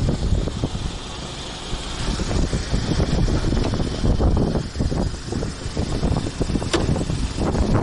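Motorcycle on the move: engine running under heavy, irregular wind buffeting on the microphone.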